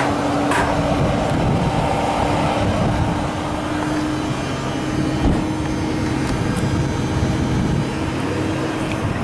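Steady vehicle rumble with a constant hum, and one short knock about five seconds in.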